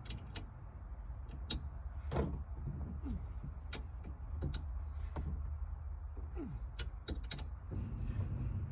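Scattered light clicks and knocks of metal hardware and hand tools being handled while the roll bar is snugged down, with a few short squeaks, over a steady low hum.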